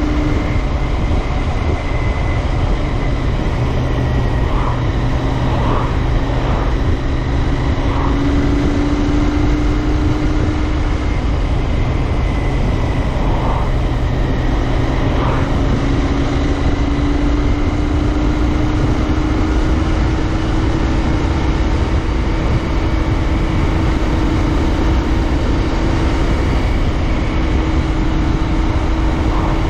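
Royal Enfield Interceptor 650's parallel-twin engine running at a steady cruise, its note drifting only slightly in pitch, over heavy wind and road rumble on the GoPro microphone.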